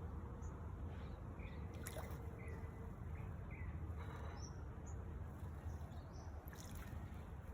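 Small birds giving short chirps, several in the first half and a few higher notes later, over a steady low rumble, with a couple of sharp clicks.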